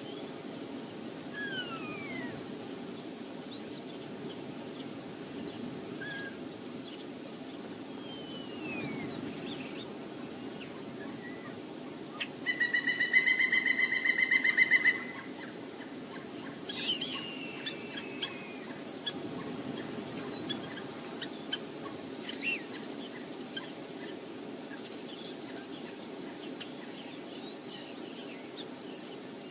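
Wind rumbling steadily on the microphone, with birds chirping. About halfway through comes a loud rapid run of high, evenly pulsed notes lasting a couple of seconds, then a falling call and scattered small chirps and ticks.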